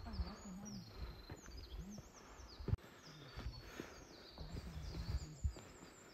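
Birds calling in the evening forest: many short, high, downward-gliding chirps, repeating and overlapping, over scattered low thumps.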